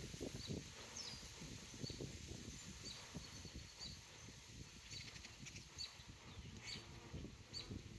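A swarm of honeybees humming low and faintly, while a bird repeats a short high chirp about once a second.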